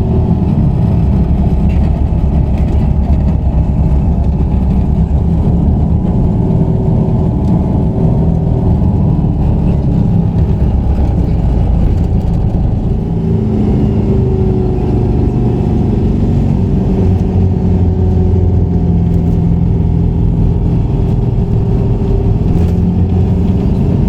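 Steady, loud low rumble of vehicle or machinery noise, with faint wavering tones over it.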